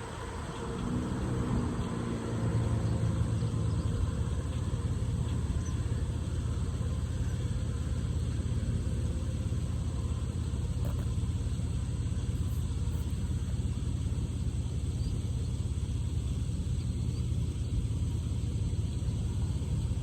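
Car driving, a steady low engine and road rumble that builds as it picks up speed over the first couple of seconds, then holds level.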